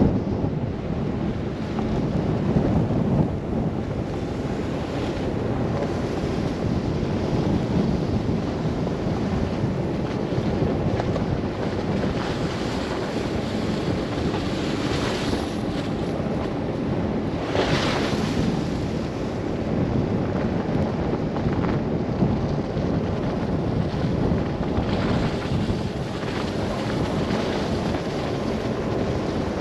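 Steady rush of blizzard wind buffeting a moving car and its microphone, with a brighter whoosh of a gust partway through.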